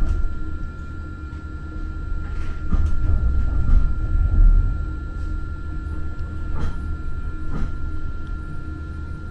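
Muni Metro light-rail car running along the track, heard from inside: a steady low rumble with a thin steady whine, and a few sharp clacks, two of them in the second half.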